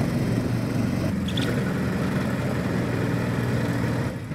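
Mini monster truck's small engine running steadily at an even pitch, with a brief drop in level just before the end.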